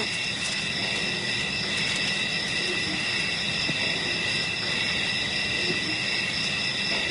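Steady insect chorus, crickets or cicadas trilling together at several high pitches without a break.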